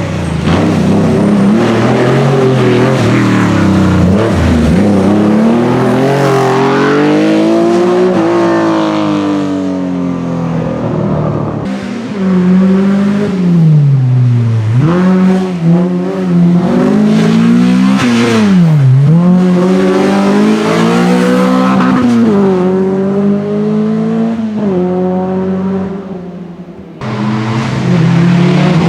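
Historic rally car engine at full throttle on a stage, its pitch climbing and dropping sharply again and again as it shifts and brakes for corners. The sound breaks off abruptly about 12 seconds in and again near the end.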